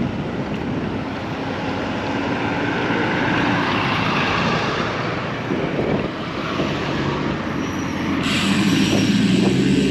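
Steady rumble of vehicle traffic with low engine tones running under it, growing brighter and a little louder about eight seconds in.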